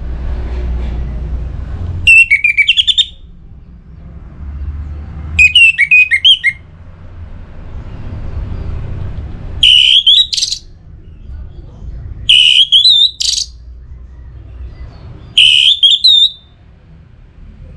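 Orange-headed thrush singing: five loud phrases of quick rising and falling notes, each about a second long and a few seconds apart, over a low rumble between phrases.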